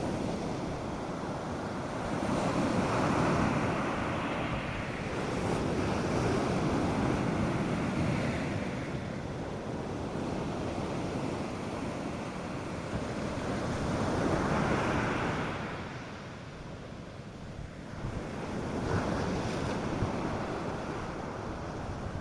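North Sea surf breaking on a sandy beach, the wash swelling and ebbing in waves every few seconds, with light wind buffeting the microphone.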